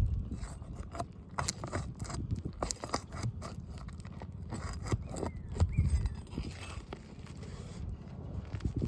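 Irregular scrapes, clicks and knocks of hands and tools working on roof shingles, loosening them to get at the nails, over a low rumble.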